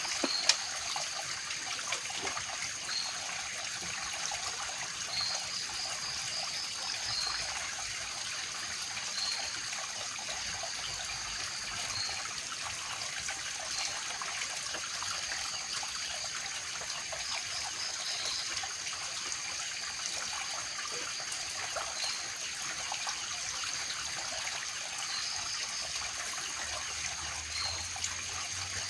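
Steady trickle of running water, with a steady high-pitched tone and short high chirps repeating every couple of seconds over it.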